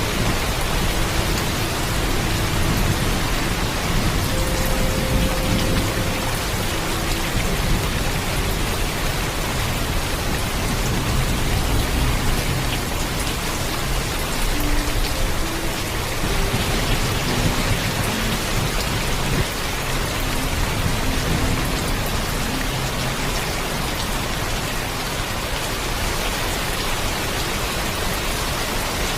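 Steady heavy rainfall with a low rumble of thunder underneath.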